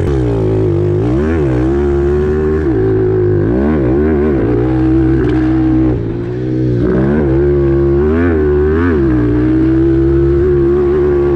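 Pit bike engine revving hard while being ridden on a motocross track, its pitch dipping and climbing again several times as the throttle is rolled off and back on.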